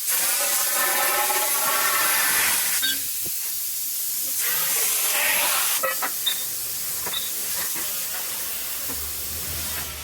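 Plasma torch cutting steel pipe on a rotary CNC plasma cutter: a loud, steady hiss that starts suddenly, with a wavering whine over it for the first few seconds.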